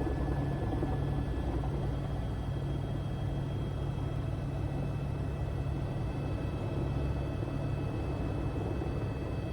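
Helicopter engine and rotors running in a steady, even drone as the aircraft descends toward a snow landing.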